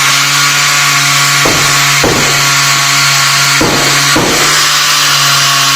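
A power tool, most likely an angle grinder, grinding metal steadily: a constant motor hum under a loud hiss, with a pair of brief harsher strokes about every two seconds as it bites the steel.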